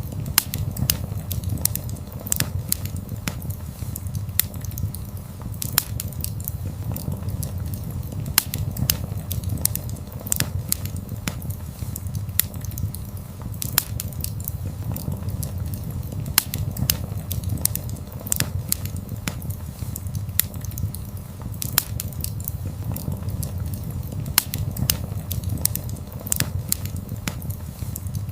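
Wood fire crackling: frequent irregular sharp pops and snaps over a steady low rumble of burning flames.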